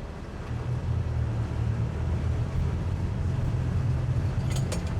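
Twin 200 hp Suzuki outboard motors running steadily under load with a low rumble, growing louder about half a second in. A few short clicks near the end.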